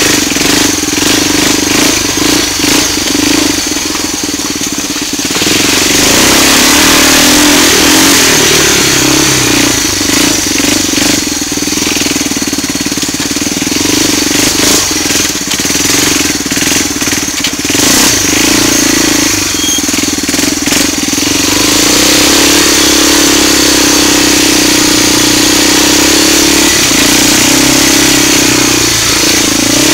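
Four-wheeler ATV engine running loud through a homemade straight-pipe exhaust built around the stock muffler's baffle, under way on a ride, its note holding steady with surges of throttle that swell louder about six seconds in and again past twenty seconds.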